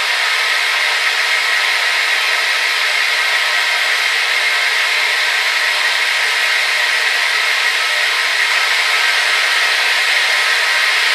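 Hair dryer running continuously: a steady, even whoosh of blown air and motor hiss with no low end, brightest in the upper middle, without changes.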